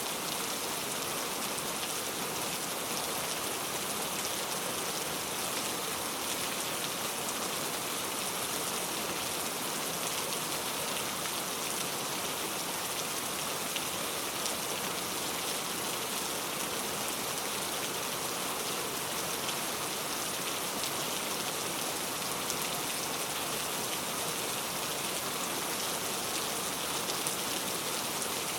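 Steady rain: an even hiss of falling rain with the faint ticks of single drops, unchanging throughout.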